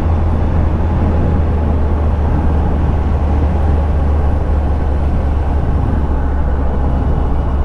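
2001 Yamaha FZS1000 Fazer's inline-four engine running at a steady cruise, a constant low drone with a rush of noise over it.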